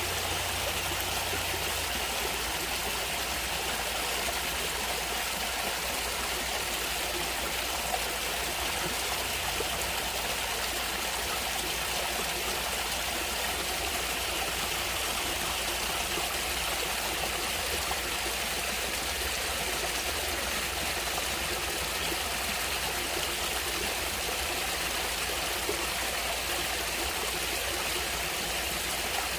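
A stream of water running over rocks, a steady rushing and trickling with no change.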